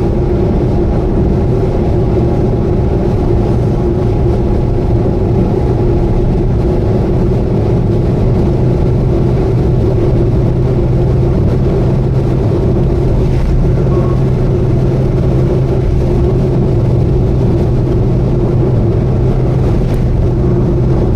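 Subaru Vivio's small four-cylinder engine and road noise, running steadily at cruising speed. A steady hum is joined by a stronger low hum about halfway through.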